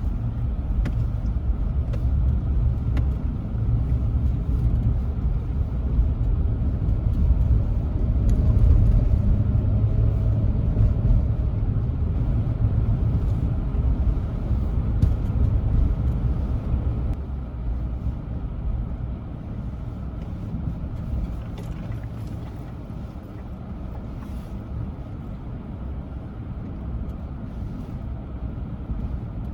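Steady low road-and-engine rumble inside a moving van, louder at first and easing off a little past halfway.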